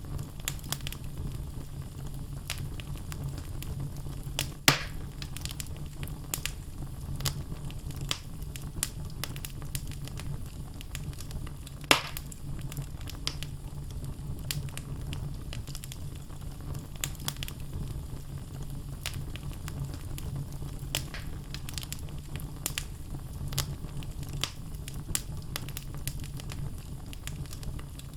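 Wood logs burning in a fireplace: a steady low rumble of flames under constant small crackles and snaps, with two sharper, louder pops about five seconds in and about twelve seconds in.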